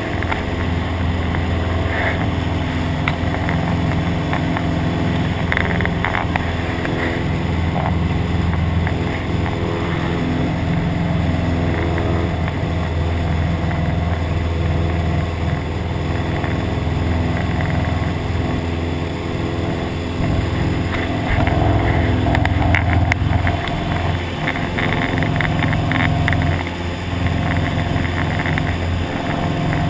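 Cessna 172's piston engine and propeller running at a steady cruise drone.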